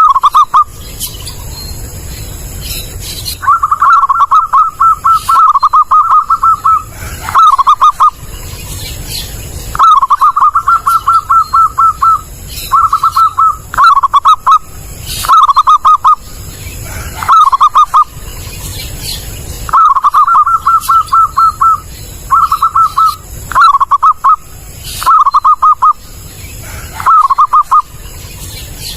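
Zebra dove (perkutut) cooing loudly: repeated runs of rapid staccato notes, each run lasting one to three seconds, with short pauses between.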